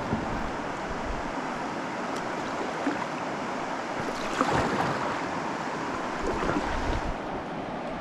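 Steady rush of river water around a kayak, with a few brief louder moments, the strongest about halfway through.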